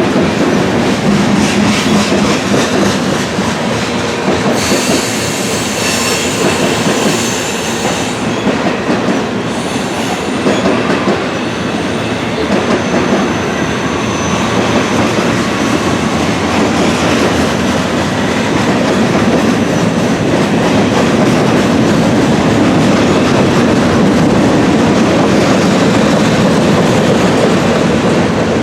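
Norfolk Southern freight train rolling past, its wheels clattering over the rail joints and crossings of the junction. A high wheel squeal comes in about five seconds in and fades over the next few seconds.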